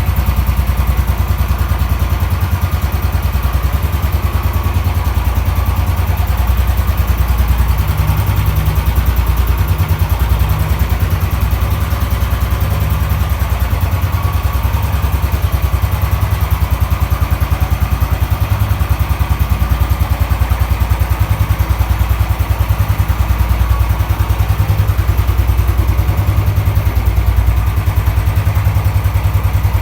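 Royal Enfield Bullet 350 ES BS6's single-cylinder engine idling steadily through its stock factory silencer, with an even, rapid beat.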